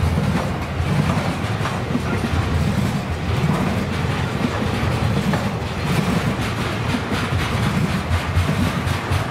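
Container wagons of a freight train rolling past close by: a steady rumble of steel wheels on the rails that swells and fades as each set of bogies goes by, with light clicks over it.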